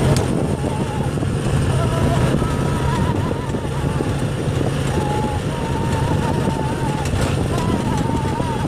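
An engine running steadily with a low, even hum, while faint voices come and go in the background.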